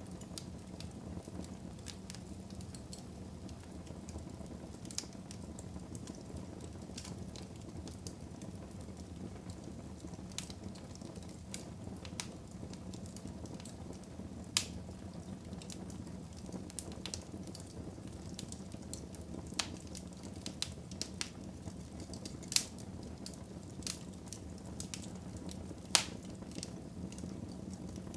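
Wood fire burning in a fireplace: a steady low rumble of flames with irregular sharp crackles and pops, a few of them loud.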